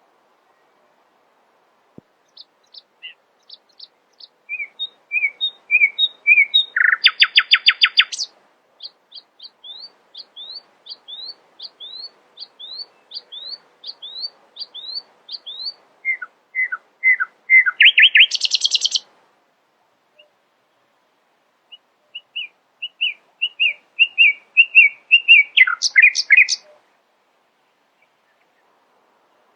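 A nightingale singing: phrases of repeated whistled and chirping notes, some ending in a loud rapid trill, with short pauses between phrases.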